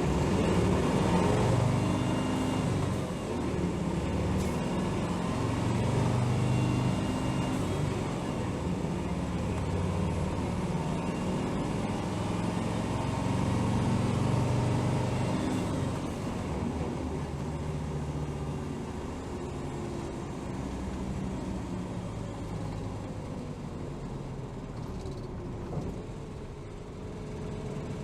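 Interior running sound of a 2007 Hino Rainbow HR city bus: the diesel engine and drivetrain under way, with the engine note rising and falling. It is louder through the first half and runs more quietly from about halfway.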